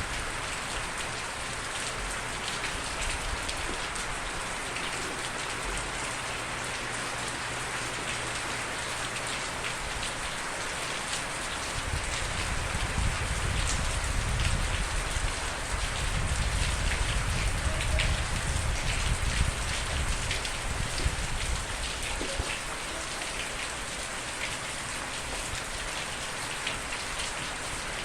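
Steady rain falling on a surface, a dense even hiss with fine individual drop ticks. A low rumble swells in about twelve seconds in and fades out about ten seconds later.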